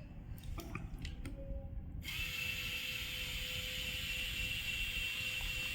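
Small DC gear motor starting up about two seconds in and then running steadily with a whirring whine, after a few faint clicks; this is the motor being let run again once the alcohol cut-off ends.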